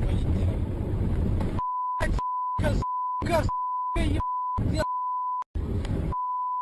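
A steady high censor-bleep tone cuts in and out about seven times, chopping through vehicle rumble and snatches of voice that show between the beeps. The first second and a half is the rumble alone.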